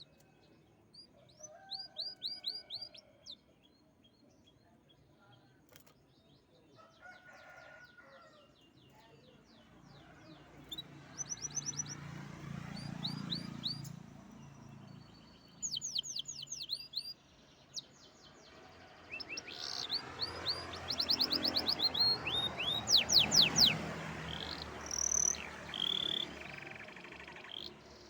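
Songbird singing in several phrases of rapid trills, each made of quick, high, downward-sweeping notes, with short pauses between phrases. A lower, rougher sound runs under the loudest phrases about halfway through and near the end.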